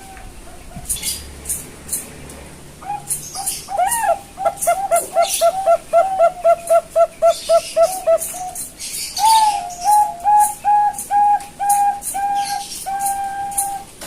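Young zebra dove (Bangkok perkutut) singing. First comes a fast run of short cooing notes, about four a second, then a slower series of longer, even coos. Short high-pitched ticks sound throughout in the background.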